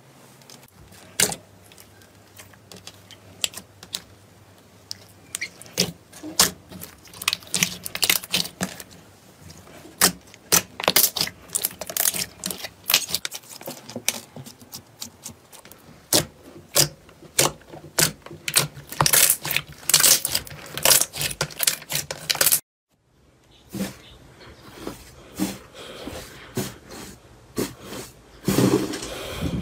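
Slime being squeezed and poked by hand, giving a dense, irregular run of sharp clicks and pops. The sound cuts out for a moment about 23 seconds in, then similar clicking resumes.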